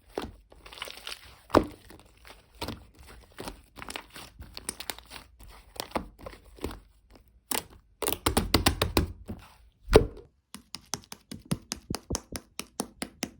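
Clay-mixed slime being squeezed and poked by hand, giving sticky clicks and small pops, with a denser crackling stretch past the middle and one heavier thump just after it. Quick, even clicks follow to the end.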